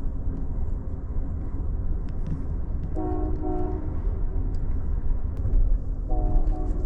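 California Zephyr passenger train running with a steady low rumble, its horn sounding in two short pairs of blasts, one about three seconds in and one near the end.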